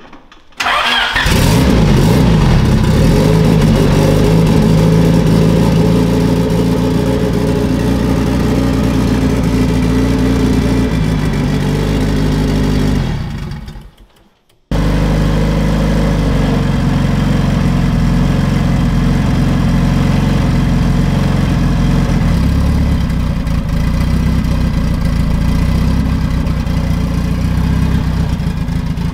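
Freshly installed Honda D16 four-cylinder engine catching and revving up, then running steadily. It fades out about halfway through, then is running again at a steady idle.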